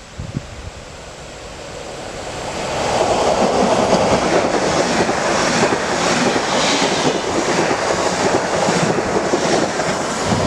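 Electric multiple-unit passenger train approaching and passing close by at speed. A rush of wheels and air builds over the first few seconds into a loud, steady rolling noise with rhythmic wheel clicks about twice a second as the carriages go by.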